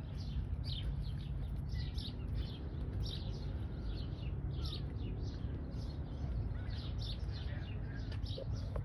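Small birds chirping repeatedly, short quick falling chirps, over a steady low rumble.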